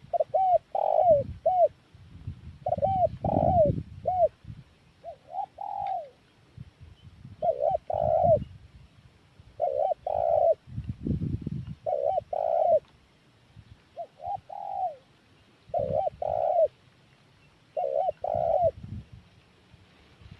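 Spotted dove (tekukur) cooing: about nine short phrases of two to four notes each, one roughly every two seconds, with a low rumble under several of them.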